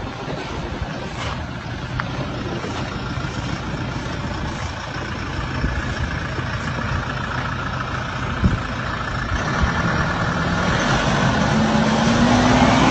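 Toyota Hilux 4x4's engine running just after starting, idling steadily, then rising in pitch and getting louder over the last few seconds.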